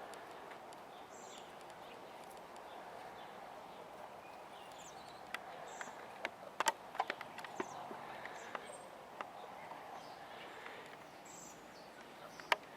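Outdoor background with faint, short bird chirps. A run of sharp clicks and taps comes about five to nine seconds in, and one more near the end.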